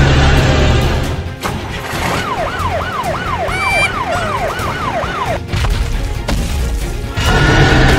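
Background music with a cartoon siren sound effect in the middle: a fast up-and-down wail, about three sweeps a second, lasting nearly three seconds. A short rising whistle sounds partway through it.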